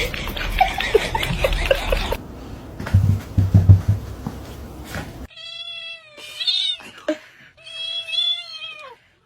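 Domestic cat meowing: two long, drawn-out meows in the second half. Before them, rattling and clattering noise with a few heavy thumps.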